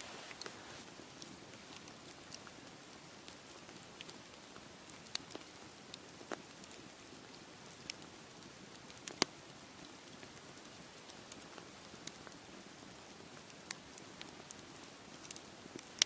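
Wood campfire crackling, with scattered sharp pops, the loudest about nine seconds in, over a steady soft hiss.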